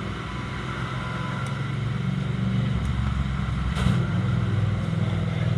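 A steady low engine hum that swells about halfway through, with a brief click near the end.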